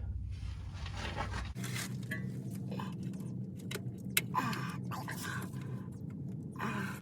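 Scattered plastic clicks and scraping as spark plug wires are worked loose from their retaining clips, with a sharp click about four seconds in. A steady low hum runs underneath.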